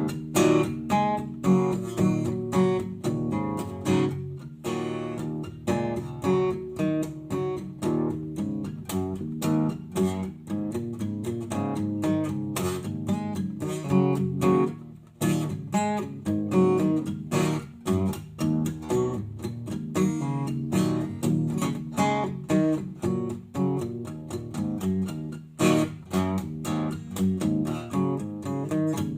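Guitar played solo, plucked and strummed in a steady rhythm of quick repeated notes.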